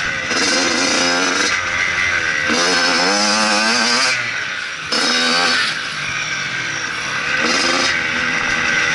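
Motocross bike engine revving hard in repeated surges, its pitch climbing five or so times and dropping off between them, with a brief throttle-off dip a little before the midpoint.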